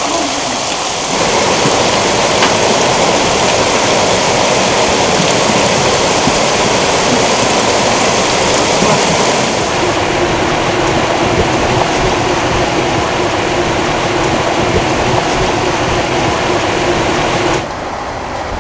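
Heavy thunderstorm rain pouring down in a steady dense rush. It gets louder about a second in and becomes abruptly quieter near the end.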